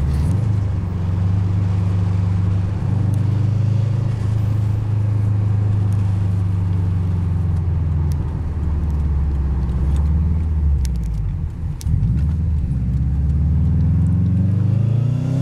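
Subaru WRX's turbocharged flat-four engine heard from inside the cabin, holding a steady drone while driving. About eleven seconds in it briefly drops off, then its pitch climbs as the car accelerates toward the end.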